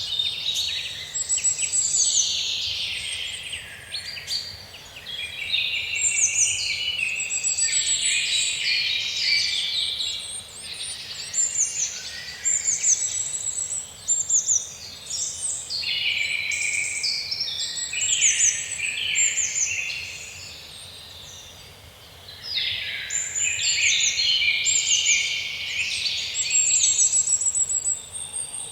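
Small songbirds chirping and trilling in a dense chorus of high, quick calls, with brief lulls about 4 seconds in, midway, and around two-thirds of the way through.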